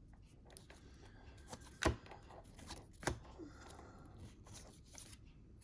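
Trading cards being handled on a tabletop: faint rustling and small ticks, with two sharp taps, about two seconds in and about three seconds in.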